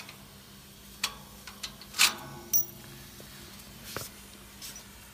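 Handling clicks and knocks from the parts of a fireworks launching rack as its plugs are pulled out and the pieces are moved. There are about seven separate knocks; the loudest, about two seconds in, rings briefly.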